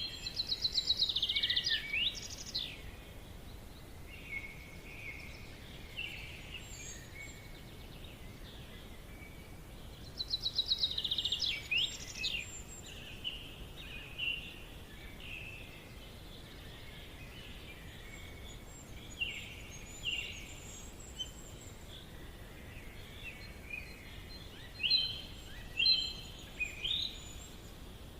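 Several birds singing and calling in a forest: scattered chirps and whistles, with a fast trill of rapidly repeated notes near the start and again about ten seconds in, over a faint steady hiss.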